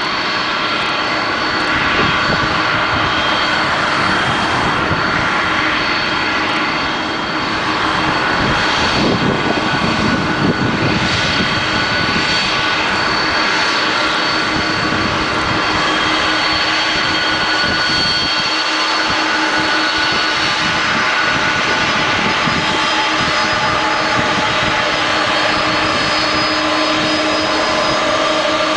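Jet engines of a Boeing 767-300ER twinjet running, a loud steady rush of noise with several steady high whining tones over it.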